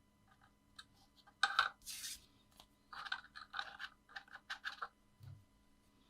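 Paper and card being handled on a desk: a series of short scratchy, rustling scrapes, loudest about a second and a half in, then a quick run of shorter ones, with a small soft knock near the end.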